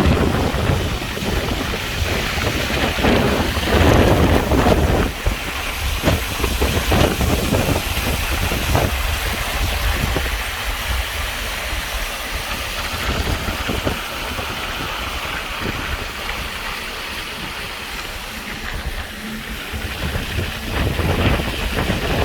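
Low rumble of a train running by, heavily overlaid with wind buffeting the microphone, with a few sharp knocks along the way.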